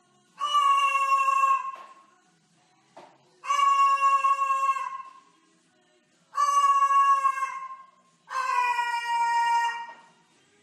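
A bird giving four long, level, pitched calls, each lasting over a second and spaced about three seconds apart.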